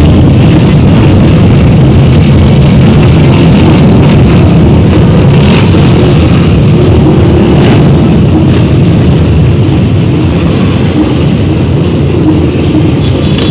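Motor vehicle engines running and revving, loud and distorted, with a couple of sharp pops partway through.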